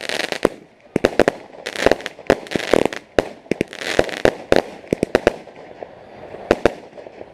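Fireworks going off: a rapid string of sharp bangs with crackling hiss between them, thinning out after about five seconds to a few separate bangs.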